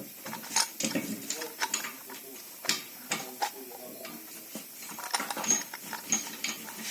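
Metal tools and brake-caliper parts clicking and clinking as they are handled, with a few short high ringing pings.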